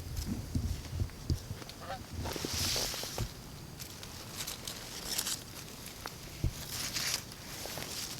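Canada geese honking, with one short, clear honk about two seconds in, amid rustling and a few low knocks.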